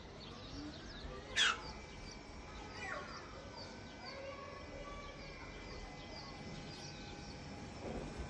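Small birds chirping over and over, with one louder falling call about a second and a half in, over a faint steady hum.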